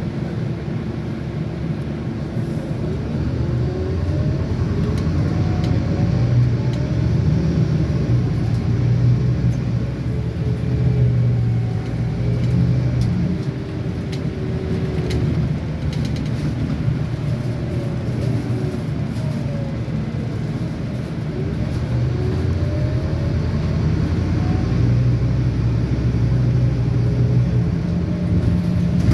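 Scania N230UD double-decker bus engine and drivetrain heard on board while under way, a steady low rumble that swells and eases several times as the bus accelerates, with whining tones rising and falling in pitch.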